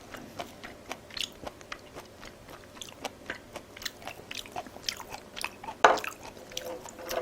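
A person chewing and biting food, a run of short mouth clicks with a louder one about six seconds in.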